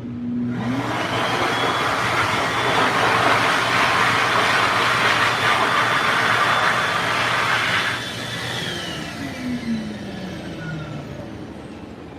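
Excel Xlerator Eco hand dryer starting up with a brief rising motor whine, then blowing a loud steady rush of air. About eight seconds in it cuts off and the motor winds down in falling pitch.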